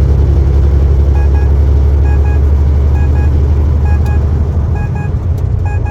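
Semi-truck's diesel engine droning steadily, heard inside the cab. From about a second in, a short double beep repeats about once a second.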